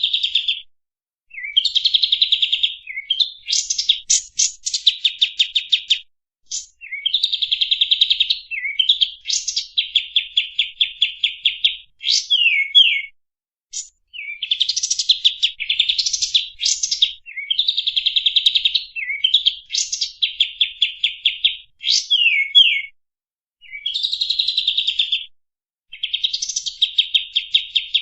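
Kapas tembak songbird singing a master-recording song: loud phrases of rapid, high chirps and trills, each lasting one to three seconds, repeated with brief pauses between them.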